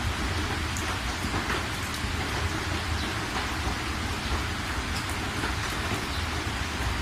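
Steady rain falling, with a few individual drops standing out and a low rumble underneath.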